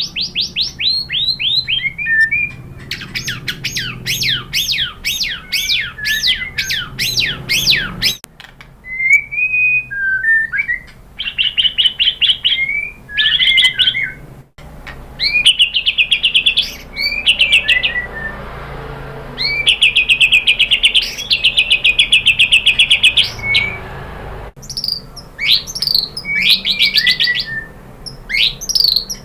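White-rumped shama singing in full, excited song: fast runs of rapidly repeated sweeping notes and short whistled phrases, broken by brief pauses.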